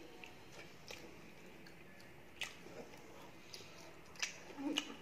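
Close-up eating sounds of chicken burgers with lettuce being chewed: quiet wet mouth noises and soft crunches, with a few sharp clicks at irregular intervals. A brief murmur near the end.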